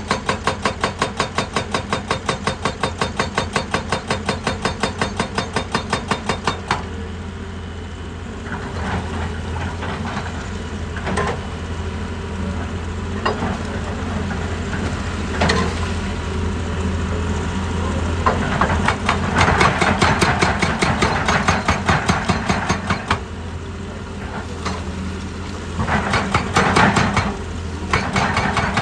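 Excavator-mounted hydraulic rock breaker hammering in rapid, even blows over the diesel engine; it stops about seven seconds in and picks up again near the end. In between, the engine runs with a few single clanks and stretches of rougher, louder scraping noise.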